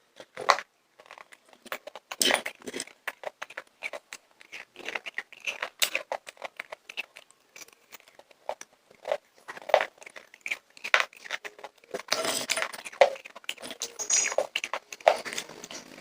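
Popcorn being chewed close to the microphone: a rapid run of crisp, uneven crunches, growing denser and louder about twelve seconds in.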